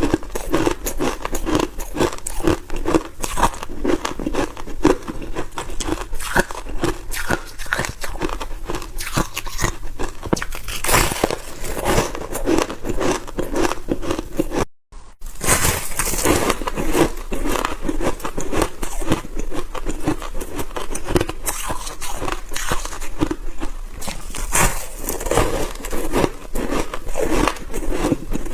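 Freezer frost (soft white ice) being bitten and crunched close to the microphone: a dense, continuous run of crisp crunches, broken by a momentary gap about halfway through.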